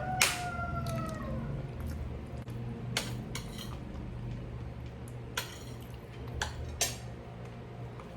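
Metal cutlery clinking against a plate or bowl while eating: about six separate sharp clinks, the first about a quarter-second in, the rest spread over the following seconds. A rooster's crow trails off in the first second.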